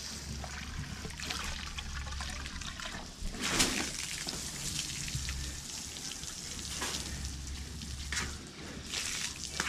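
Water splashing and trickling, with a louder gush about three and a half seconds in.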